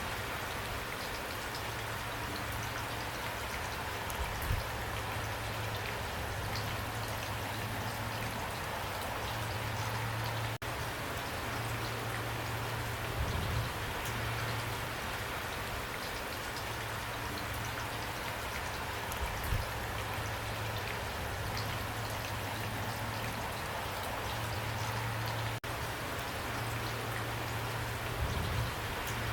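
Heavy rain falling steadily, a dense even hiss with individual drops pattering through it. A low hum swells and fades beneath it, and the sound cuts out for an instant twice.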